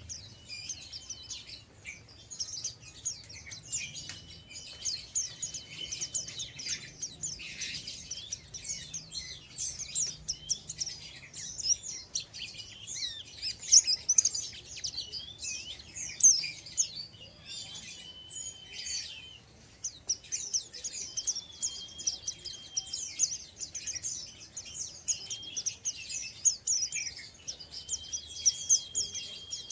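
Young white-eye (pleci) twittering in a fast, continuous run of high chirps: the 'ngeriwik' song of an untrained bird. Several times a thin steady whistle is held for a second or two beneath the chirping.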